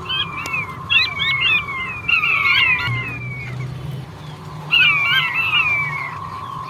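Male king quail (blue-breasted quail) calling: quick clusters of falling whistles in several bursts, with a gap in the middle. A steady thin tone and a low hum run beneath.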